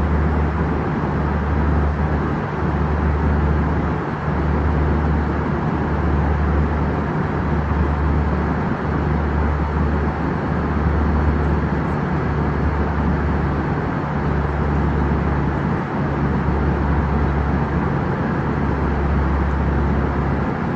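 Steady loud running noise of a moving vehicle, with a low throb that swells and drops back about every second and a half.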